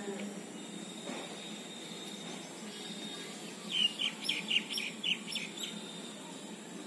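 A bird chirping, a quick run of about ten short high notes, starting about four seconds in and lasting about two seconds.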